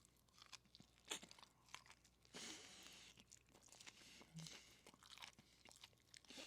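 A person chewing a mouthful of boiled cabbage, faint crunches and small mouth clicks.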